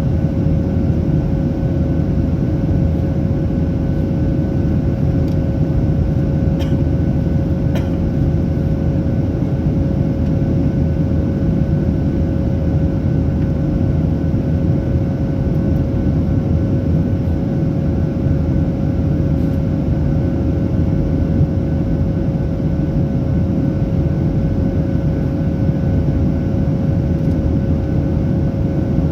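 Boeing 737-800's CFM56-7B jet engines heard from inside the rear economy cabin: a steady, loud rumble with a steady hum tone over it.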